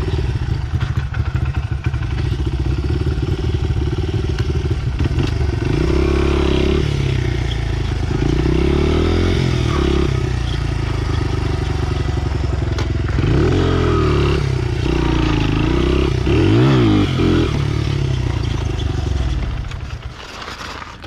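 Pit bike engine running under way, revved up and down several times as the throttle is worked. The engine sound falls away about twenty seconds in.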